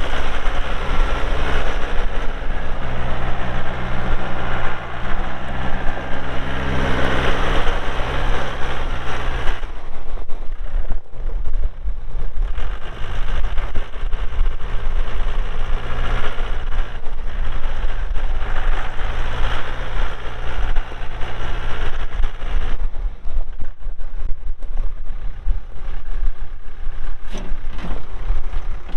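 Mahindra 3650P tractor's diesel engine running steadily. It is louder for roughly the first third, then settles lower, with another change in tone near the end.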